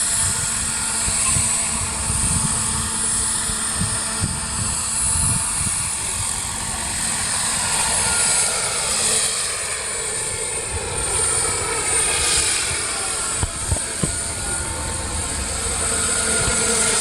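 Turbine engine and rotors of a large radio-controlled Alouette III scale model helicopter running, with a steady high turbine whine over an uneven low rumble. Its tones slide in pitch about halfway through.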